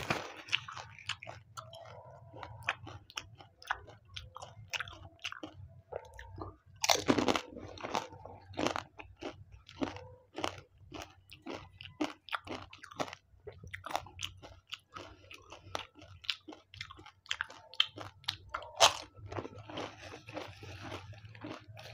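Close-miked chewing of pani puri (golgappa), the crisp fried puri shells cracking and crunching between the teeth in quick irregular clicks. Two louder, sharper crunches come about 7 seconds and 19 seconds in.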